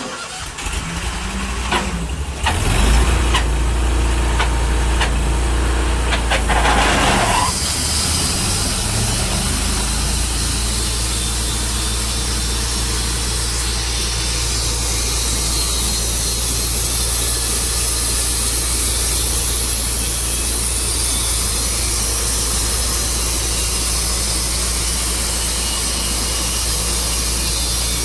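Sawmill engine starting and coming up to speed with some clatter over the first several seconds, then running steadily.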